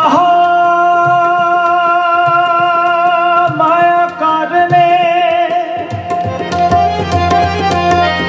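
Sikh kirtan music: a singer holds a long drawn-out note over the steady drone of a harmonium, with tabla accompaniment. The tabla strokes become thicker and more regular over the last two seconds or so.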